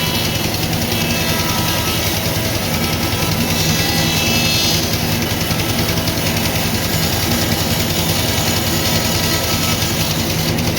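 Sawmill machinery running steadily: a low, even engine-like hum with a fast fine pulse, and faint high whining tones that come and go.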